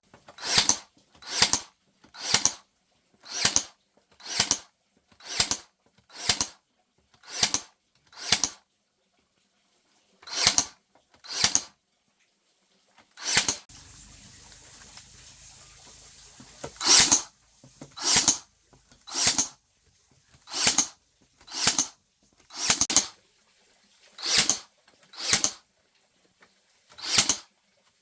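Repeated short scraping strokes, each a quick rasp, at about one a second with two brief pauses: a hand tool being worked over bamboo.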